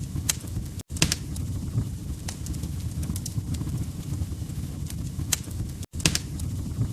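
Log fire crackling: a steady low rumble of flames with sharp pops and snaps at irregular intervals. The sound cuts out completely for a split second twice, about a second in and about six seconds in.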